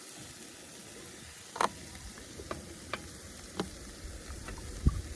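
Beef rib meat sizzling on the heat: a steady hiss with sharp pops of spitting fat every second or so, the loudest one near the end.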